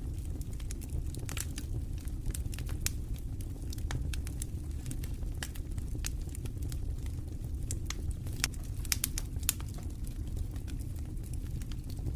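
Campfire crackling, with many sharp, irregular pops, over a steady low rumble of wind.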